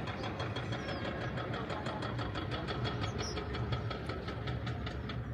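An engine running steadily, with a rapid, regular ticking of about seven clicks a second over a low hum.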